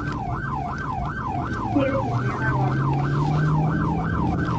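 Police car siren in its fast yelp mode, its pitch sweeping rapidly up and down about two and a half times a second, over a steady low engine hum.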